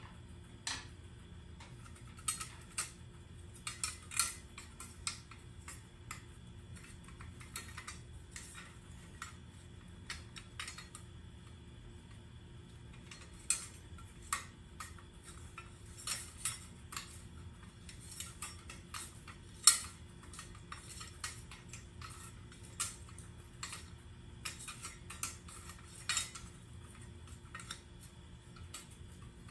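Small metal parts and tools clinking and tapping irregularly, with one sharper clink about two-thirds of the way through, over a faint steady hum.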